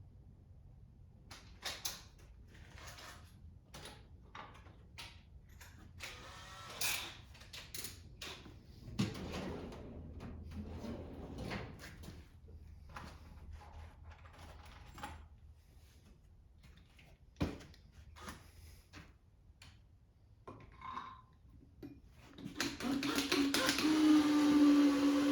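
Metal tools and parts clinking and knocking in a series of separate sharp clicks during small-engine disassembly. Near the end, a louder whirring with a steady pitch starts up.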